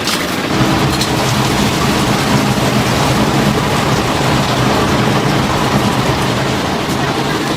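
Chicken pieces deep-frying in a vat of hot oil, a steady loud sizzle, with a faint low hum underneath.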